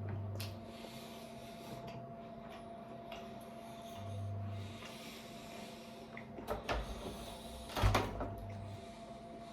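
Apple being bitten into and chewed: short crisp crunches, the loudest about eight seconds in, over a steady low hum.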